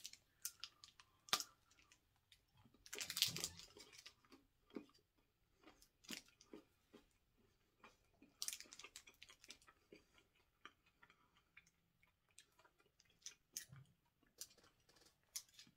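A person chewing a crispy rice-filled chocolate bar: faint crunches and mouth clicks, with louder crunching about three seconds in and again about eight and a half seconds in.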